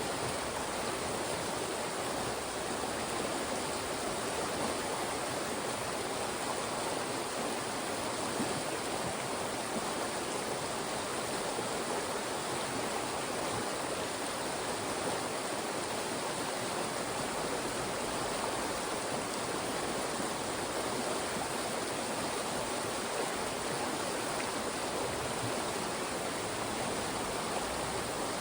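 Fast-moving stream rushing and splashing steadily as it is funnelled between rocks.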